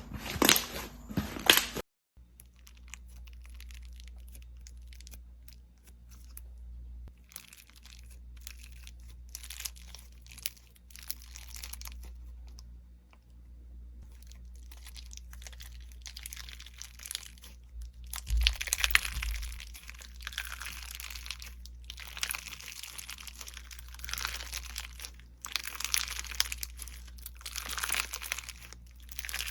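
Slime being handled up close: pressed, stretched and squished by hand, giving crunchy, crinkling crackles. Loud dense crackling stops abruptly about two seconds in, and quieter irregular crackling and squishing follows, growing louder in stretches later on.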